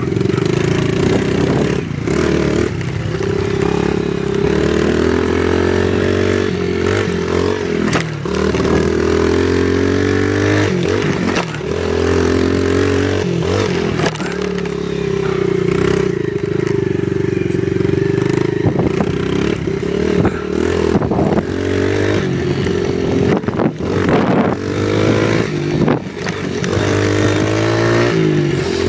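Small off-road vehicle engine being ridden, the revs rising and falling over and over as the throttle opens and closes, with scattered knocks and rattles.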